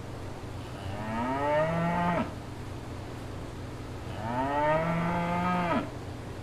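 A cow mooing twice. Each moo lasts about a second and a half, rises in pitch, holds, then cuts off abruptly.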